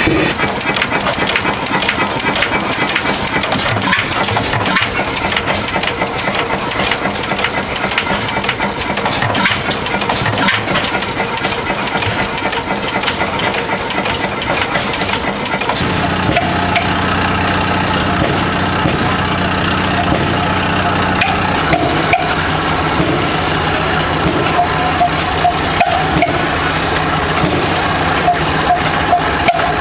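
Old stationary engines running. For the first half a fast, dense clatter; about halfway through the sound changes to a steadier, evenly pitched engine running.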